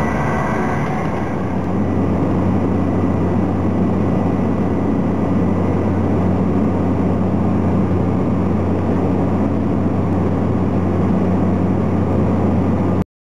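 Small passenger plane's engine droning steadily, heard inside the cabin, a low even hum under a wash of noise; it cuts off abruptly near the end.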